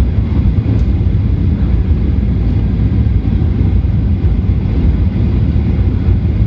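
Cabin noise inside a Boeing 737-800 during landing: a loud, steady low rumble of engines and airflow that does not change much.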